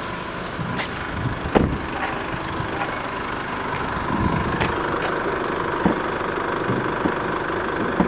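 Chevrolet Orlando's 2.0 VCDI four-cylinder turbo diesel idling steadily, with a few sharp clicks and knocks over it, the loudest about one and a half seconds in.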